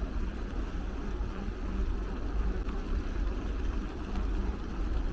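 Wind rumbling on the microphone of a camera riding along on a moving bicycle: a steady low rumble with a noisy hiss above it.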